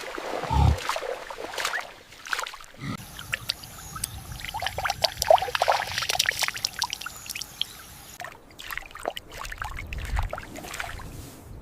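Water splashing and trickling, with many irregular small spatters and clicks.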